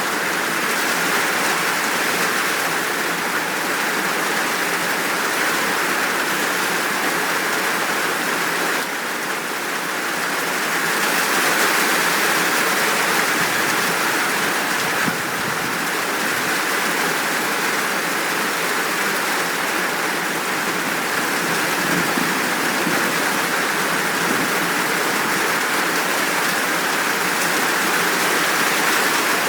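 Steady, full downpour of rain: an even, unbroken hiss.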